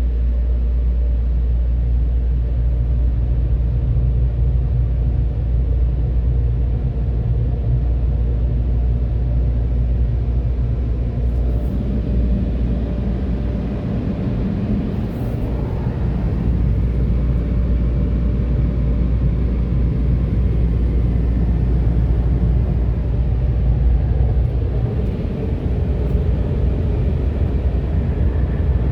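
Steady low rumble of a vehicle heard from inside the car as it leaves an automatic car wash bay. About halfway through, the sound fills out with a higher rumble on top of the deep drone.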